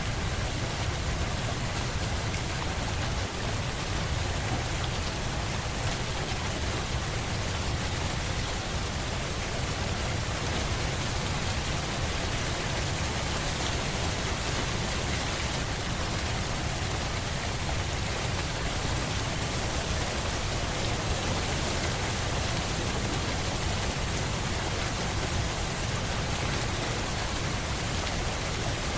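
Steady rain falling, an even wash of noise with a deep low rumble beneath it.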